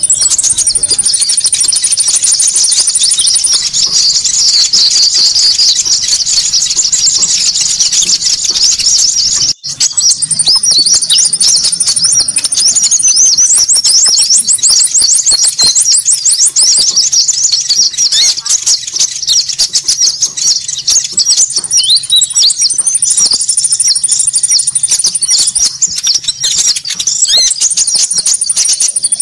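Recorded konin lure call: dense, loud, high-pitched chirping and trilling of small birds. It breaks off for an instant about ten seconds in and starts again.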